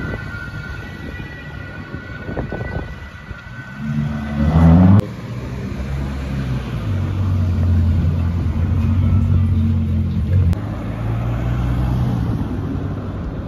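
Car engines in city traffic: an engine revs up, rising in pitch to its loudest about five seconds in, then breaks off abruptly. After that a car engine runs steadily at low revs.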